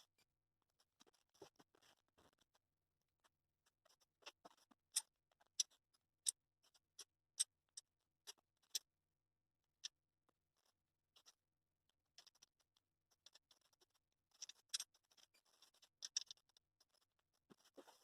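Near silence with faint, scattered small clicks and light scratching. From about five to nine seconds in there is a run of sharper clicks roughly every half second, and a denser patch of clicks comes near the end.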